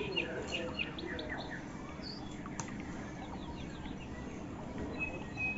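Birds chirping in the background: a run of short high notes in the first second and a half, then a few scattered calls and a brief held note near the end, over a steady low background noise.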